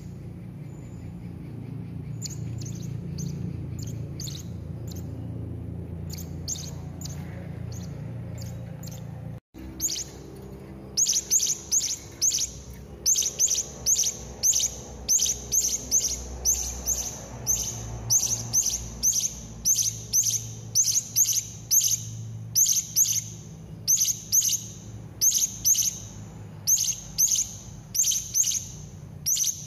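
Serindit hanging parrots giving short, thin, high-pitched chirps over a low steady hum. The chirps are sparse at first, then after a sudden break about a third of the way in they come in quick clusters of two to four, roughly one cluster a second.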